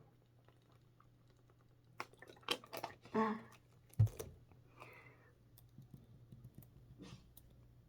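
Quiet scattered clicks like computer keys or a mouse, with a short low murmur about three seconds in and a single dull thump about a second later.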